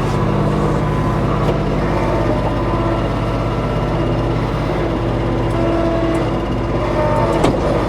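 Kubota B2650 tractor's diesel engine running steadily at idle. There is a short knock near the end.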